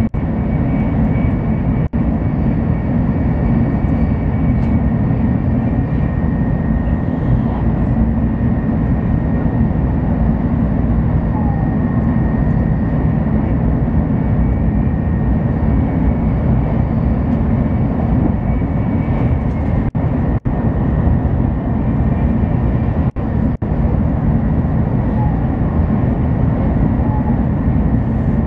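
Steady rumble of a Shinkansen Hikari running at high speed, heard inside the passenger cabin, with a faint steady high whine on top. The sound drops out for an instant a few times.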